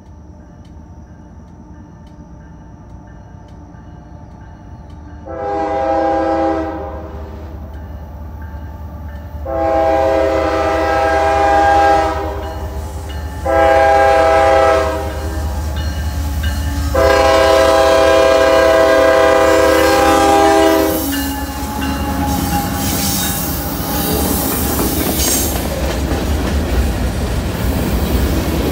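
Freight train's diesel locomotive horn sounding four blasts, the last held longest, the warning for a grade crossing, over the growing rumble of the approaching engines. Near the end the train passes close, its wheels rumbling and clacking on the rails.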